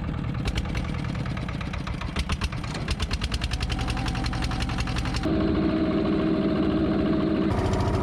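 Small fishing boat's engine running under way, its firing beats quickening over the first few seconds, then settling into a steady hum.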